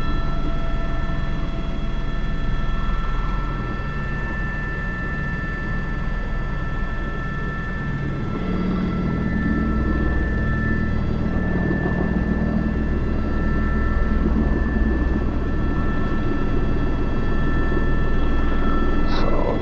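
Airbus H125 (AS350 B3) helicopter in flight, heard from the cockpit: steady high turbine whine over the rotor's low thrum. The low rumble grows stronger about halfway through.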